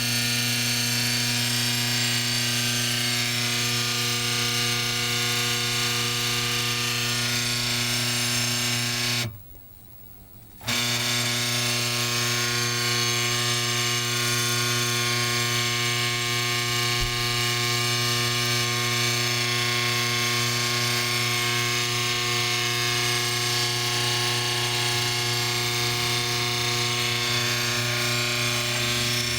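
Washing machine motor converted into an ER16-collet CNC spindle, running at a steady speed with an even hum and hiss. The sound drops away for about a second and a half around nine seconds in, then carries on unchanged.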